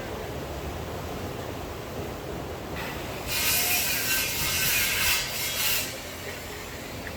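Steady rain hiss, broken in the middle by a loud rustling, scraping noise lasting about three seconds.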